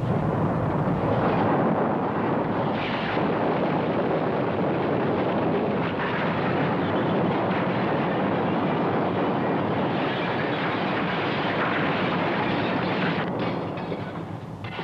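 A loud, steady rumbling roar that fades out near the end.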